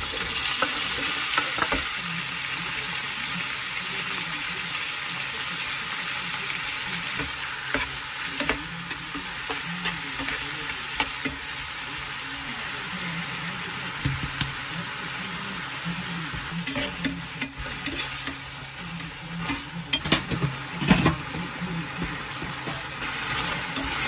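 Sliced meat, chopped bell peppers and onion sizzling steadily in a frying pan, a little louder in the first couple of seconds as the vegetables go in. The food is stirred and turned with tongs, and the tongs click and scrape against the pan, most often a little past the middle.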